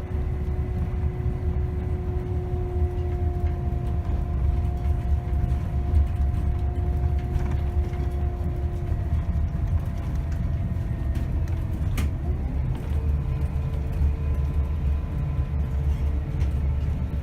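Scania K270 city bus driving, heard from inside: a steady low engine and road rumble. A faint whine shifts to a different pitch about two-thirds of the way through. There is a single sharp click a little past the middle.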